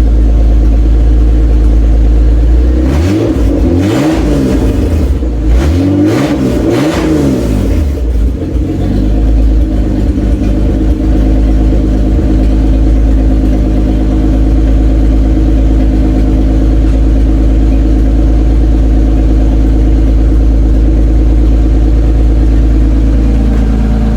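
Toyota Cressida MX83's engine running on its first start after reinstallation, exhaust not completely plumbed in: revved up and down a couple of times in the first several seconds, then settling to a steady idle.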